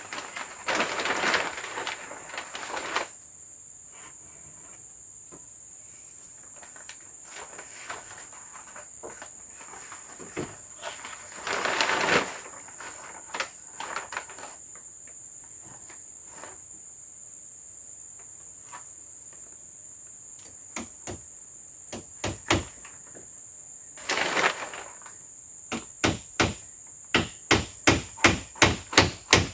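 A steady high-pitched insect drone runs under everything, with a few bursts of rustling and scattered knocks. From about 26 seconds in, a run of regular sharp blows sets in, about two or three a second, like a tool striking wood.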